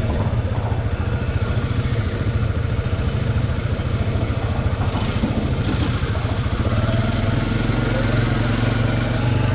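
Off-road vehicle engine running steadily at a low, even pace.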